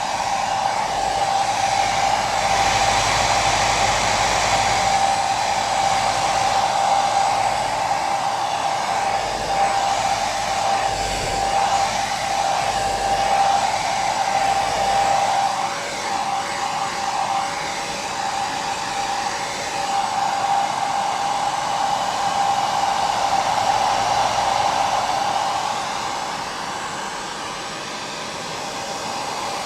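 Electric hair dryer running continuously: a steady rush of air with a high motor whine. The whine drops slightly in pitch for a few seconds just past the middle, then returns.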